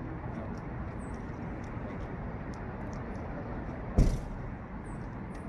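A single loud thump about four seconds in, over steady background noise.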